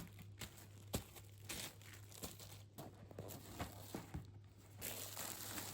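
Faint rustling and crinkling with scattered small clicks and knocks, over a low steady hum.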